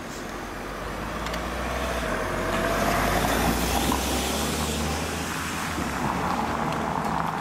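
Approaching train at a level crossing: a rumbling mix of engine and rail noise that grows steadily louder over the first three seconds, then holds.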